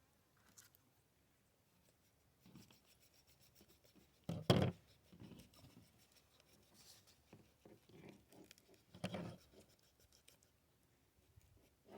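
Quiet, irregular rubbing and scraping of hands working a freshly gutted duck carcass and its organs, with two louder bumps about four and a half and nine seconds in.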